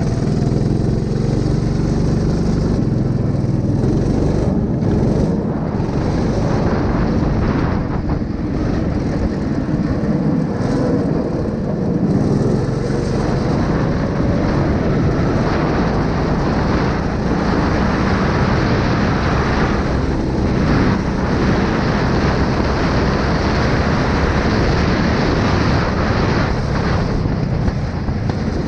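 A 9 hp engine running steadily and loudly.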